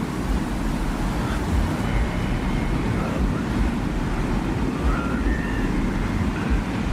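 Sound-designed desert ambience: a steady, low rumbling wind, with faint short whistling tones drifting in and out above it.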